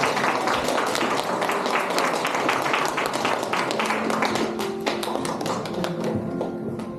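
A room of people applauding, many hands clapping at once, with background music under it. The clapping thins out near the end.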